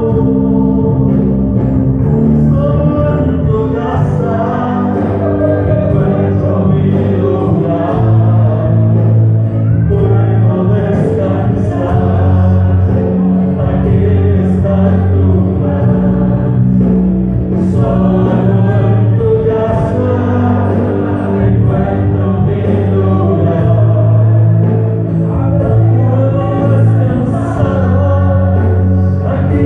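Slow gospel worship music: a band holding long bass and keyboard chords while voices sing along.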